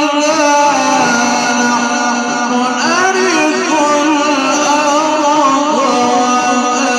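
A male Quran reciter chanting in the melodic mujawwad style, drawing out one long melismatic phrase with wavering ornaments and turns in pitch about three seconds in and again near the end.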